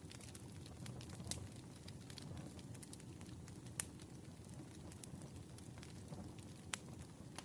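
Campfire burning: a low, steady rush of flames with scattered sharp crackles and pops, the loudest about four seconds in.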